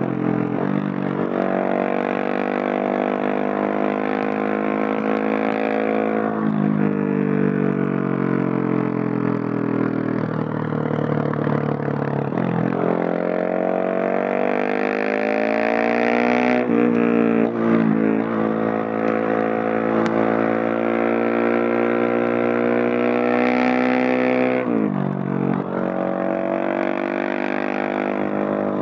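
Husqvarna 701SM's single-cylinder engine through a Leo Vince Nero stainless exhaust, pulling under load. Its note climbs steadily and then drops sharply about four times, as with gear changes while accelerating. It is heard without wind noise.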